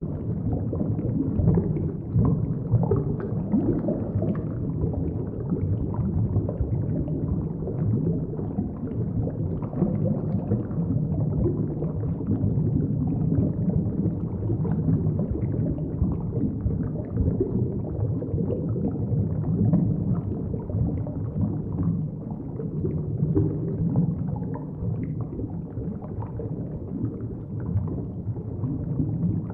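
Underwater ambience picked up by a submerged camera: a continuous muffled low rumble of moving water with fine crackling on top, muted of all high sound.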